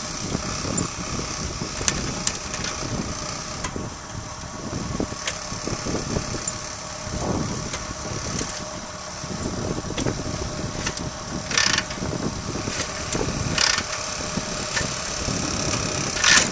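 1941 Harley-Davidson EL Knucklehead, a 61 cubic inch overhead-valve V-twin, being kicked over on full choke with the ignition off to prime the cold engine. It turns over in uneven surges without firing, with a few sharp metallic clanks from the kick-starter near the end.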